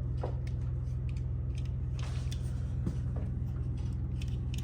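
Steady low mechanical hum, even and unchanging, with a few faint clicks and taps over it.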